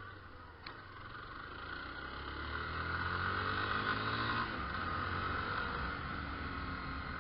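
Yamaha Fazer 250's single-cylinder engine accelerating, its pitch rising for a couple of seconds and then holding steady, with wind noise over the ride. A short click about a second in.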